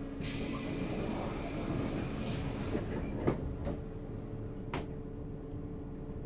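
Inside a 651 series electric train: a steady hum with two constant tones, a hiss lasting about two and a half seconds near the start, then a few sharp clicks or knocks in the middle.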